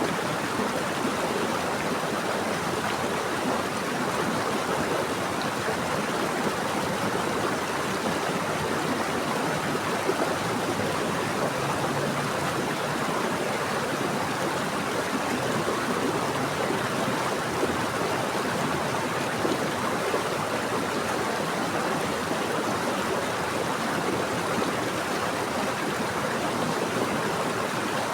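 Running water from a stream flowing over rocks: a steady, even rush with no changes.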